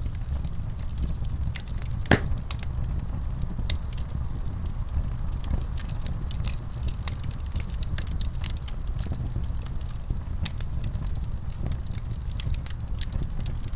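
Wood fire burning, with a steady low rumble and many irregular sharp crackles and pops, one louder pop about two seconds in.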